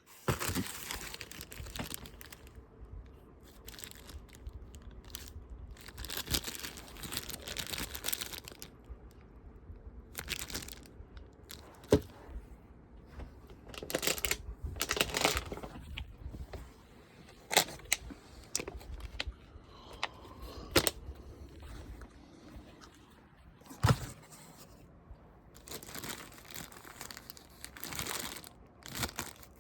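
Packaging being unwrapped by hand: irregular rustling, crinkling and tearing of wrapping, broken by several sharp knocks.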